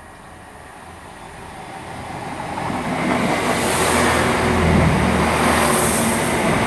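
Class 166 Turbo diesel multiple unit approaching and passing through the station, its engine and wheel noise growing louder over the first few seconds and then staying loud, with high hissing from the wheels on the rails.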